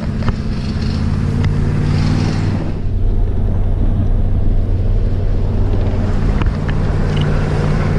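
6.0-litre LS V8 of a heavy-duty pickup running steadily under load while towing a trailer, heard from inside the cab, with road and wind hiss that drops away about three seconds in.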